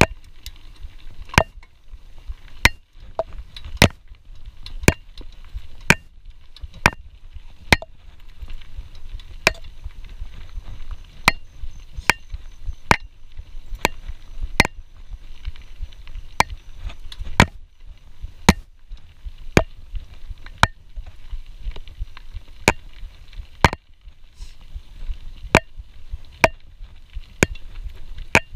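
Sharp tapping clicks about once a second: the Camelbak hydration pack's strap and drinking hose knocking against the GoPro Hero 4 camera, with a steady low rumble underneath.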